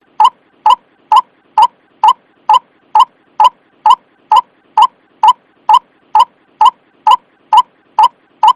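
White-breasted waterhen (ruak-ruak) calling: loud, short single notes repeated steadily about twice a second.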